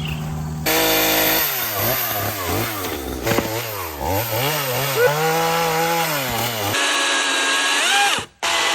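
Chainsaw running and cutting wood, its engine note rising and falling over and over. About seven seconds in, a higher, steadier power-tool whine takes over.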